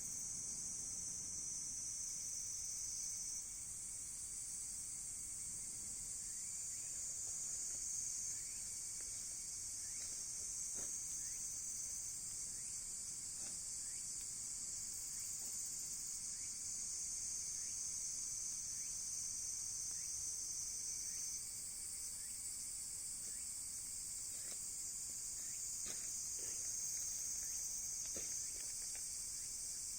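A steady, high-pitched chorus of insects, with a piercing thinner tone that comes and goes several times. Sparse faint crackles and pops come from the burning wood fire.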